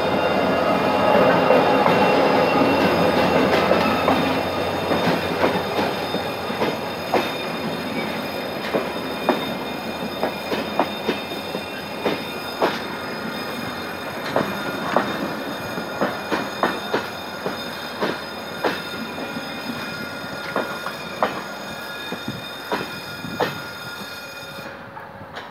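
GM GT22CW-2 diesel locomotive passing close and loud, followed by passenger coaches rolling by with a steady run of clicks as the wheels cross rail joints and a thin wheel squeal. The sound fades slowly as the train draws away.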